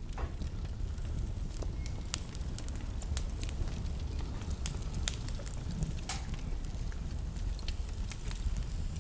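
Wood fire in a fireplace crackling: a steady low rumble of the burning with frequent irregular sharp pops and snaps.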